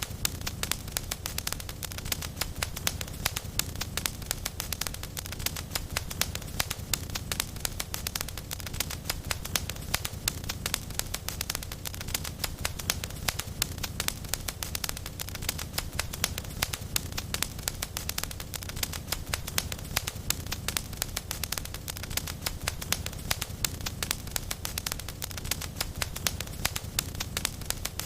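Fireplace fire crackling steadily, with many small irregular pops over a low, even rumble.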